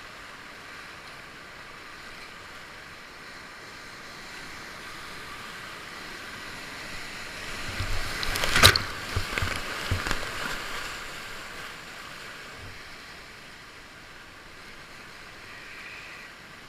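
Whitewater rapids rushing around a kayak, with a loud cluster of splashes as water crashes over the boat and camera about halfway through.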